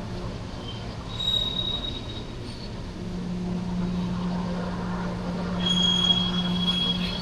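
CSX freight train rolling by under a steady low hum, with high-pitched wheel squeal about a second in and again near the end.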